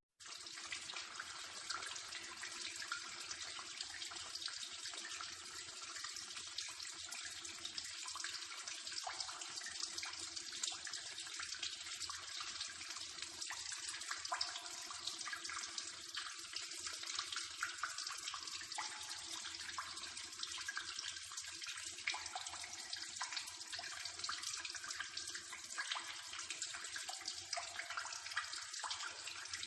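Running water: a steady stream splashing without a break.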